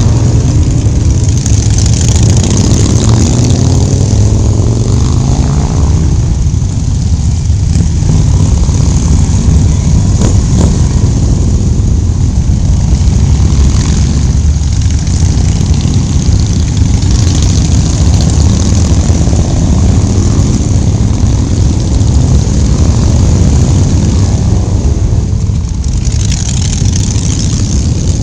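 Motorcycle engines running loud and steady on a group ride: a constant low rumble with hiss above it, the pitch shifting briefly in the first few seconds.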